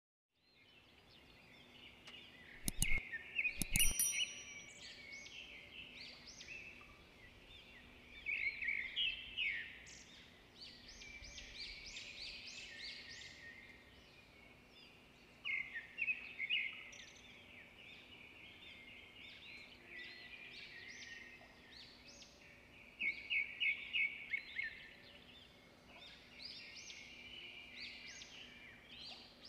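Birds chirping and singing, a busy mix of short calls and quick rapid trills, with two sharp clicks about three seconds in.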